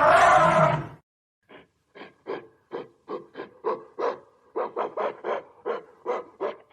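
A loud animal call that stops about a second in, followed by a run of short, separate calls, roughly three a second.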